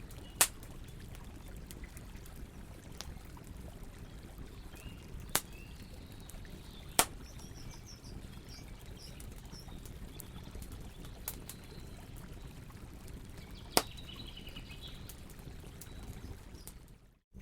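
Campfire burning with a steady low rush and sharp crackling pops, four of them loud: one just after the start, two around five and seven seconds in, one about fourteen seconds in. Faint bird chirps sound in the background, and the sound cuts out for a moment just before the end.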